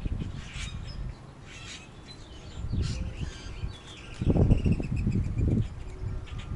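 Backyard birds chirping, with a high call sliding down in pitch midway through, over bursts of loud low rumbling noise.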